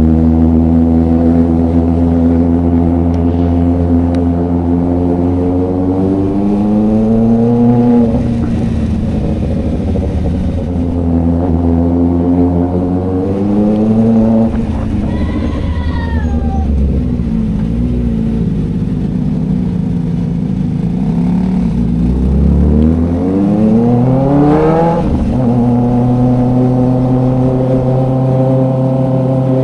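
Kawasaki Ninja ZX-4RR's inline-four engine through an SC Project exhaust, riding along with its pitch climbing under throttle and dropping back several times. It makes one sharp rev that climbs high and cuts off about five seconds before the end, then settles into steady cruising.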